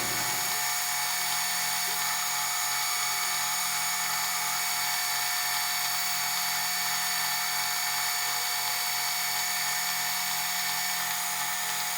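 Metal lathe running steadily, a constant machine whine with a faint regular pulsing about two or three times a second.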